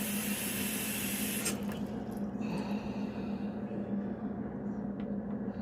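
Kitchen faucet water running into the sink as a steady hiss, which cuts off sharply about a second and a half in, leaving a quieter wash of water.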